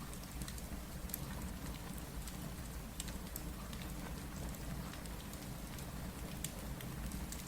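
Steady rain with a low rumble beneath, dotted with scattered sharp crackles and pops from a wood fire.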